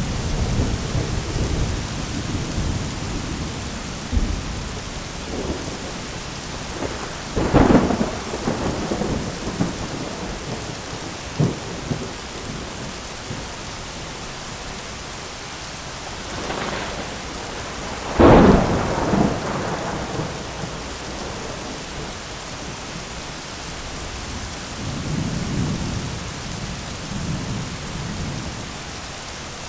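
Thunderstorm with steady rain hissing throughout. Thunder rumbles at the start, cracks sharply about seven seconds in and again, loudest, about eighteen seconds in, then rolls low near the end.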